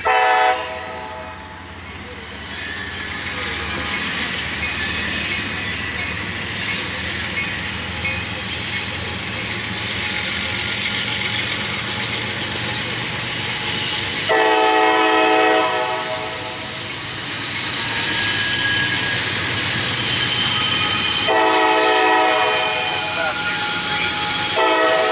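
Freight locomotive's multi-note air horn sounding in blasts: a short one at the start, two longer ones of about a second and a half each past the middle, and another as it ends. Between the blasts, the train's wheels squeal high and steady against the rails.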